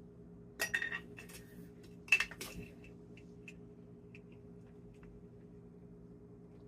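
Kitchen utensils and dishes clinking and clattering: two short bursts of clatter in the first few seconds, then a few light taps.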